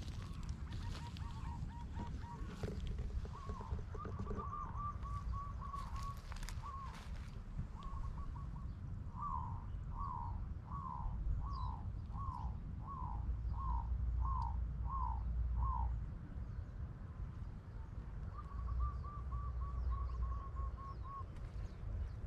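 Birds calling: quick runs of short chattering notes, then a series of about eight louder falling calls at roughly one a second, then another quick run near the end. A steady low rumble sits under them throughout.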